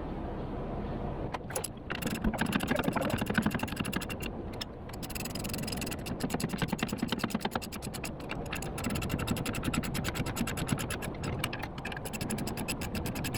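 Ratchet wrench clicking rapidly in long runs, with some metal scraping, as the backing-plate bolts on the rear axle are tightened.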